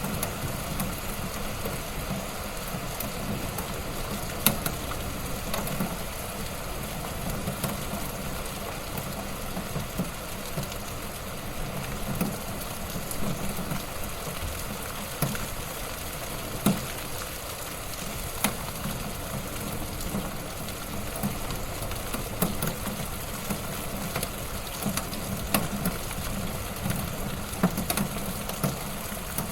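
Wood fire burning in a fireplace: a steady hiss and low rumble of the flames with scattered crackles and pops from the burning wood, the loudest a few seconds in and about halfway through.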